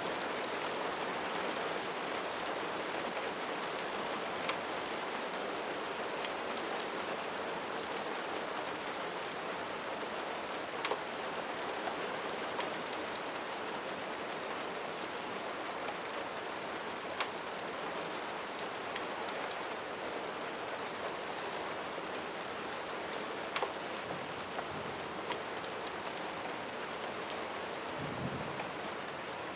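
Steady rain falling, an even hiss with scattered sharp ticks of drops. A brief low rumble swells up near the end.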